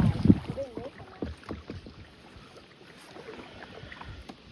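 Kayak paddling: the paddle dipping and water splashing and dripping, with scattered small knocks. It is loudest in the first second, then quieter.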